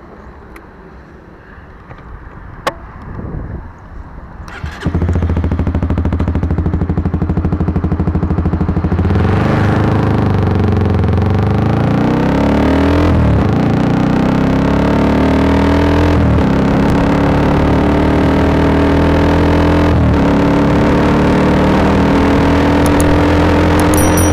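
Honda CBR150R's single-cylinder engine through an aftermarket Akrapovic exhaust, quieter for the first few seconds, then loud from about five seconds in. It revs up repeatedly with brief dips between, like a motorcycle accelerating through the gears.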